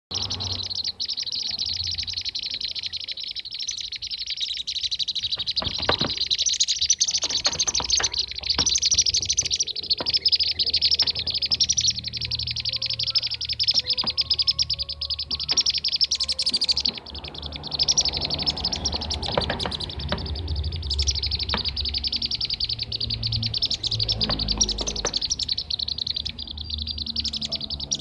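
Bee-eaters (kirik-kirik) calling in a dense, continuous stream of rapid high chirps and trills, as used for a bird lure call.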